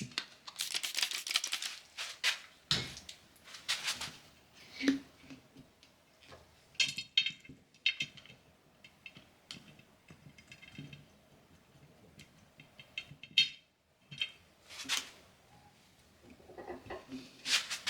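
Scattered light clicks, taps and short scrapes, with quiet gaps between them, as a rubber snap-in TR415 valve stem is worked into a steel wheel's rim hole with a worn valve stem puller.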